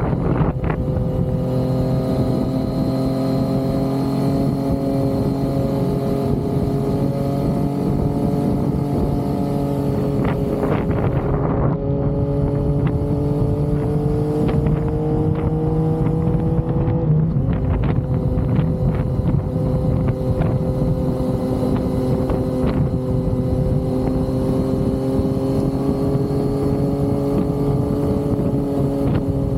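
Yamaha XSR900's inline-triple engine running under way, with wind noise over the microphone. The engine note climbs slowly, then drops abruptly about seventeen seconds in and holds steady after.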